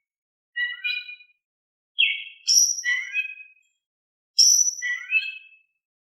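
Oriental magpie-robin (kacer) singing in short whistled phrases, three bursts of song separated by brief pauses, the second and third each holding a high, bright note.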